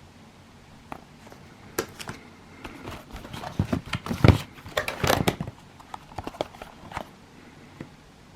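Cardboard fireworks box and its contents being handled: scattered knocks and clicks, with a busy run of rustling and knocking in the middle and one loud thump.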